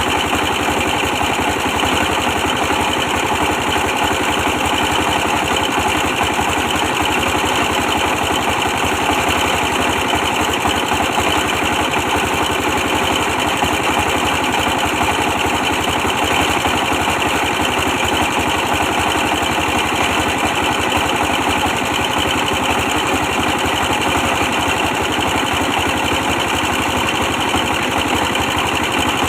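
An old 24 hp diesel engine running steadily at an even speed, its fast firing beat unbroken.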